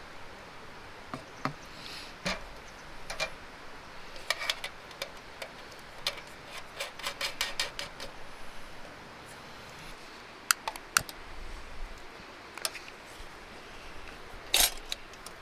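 A string of irregular sharp clicks and light knocks, with a quick run of taps about six to eight seconds in and a few louder single clacks later, the loudest near the end.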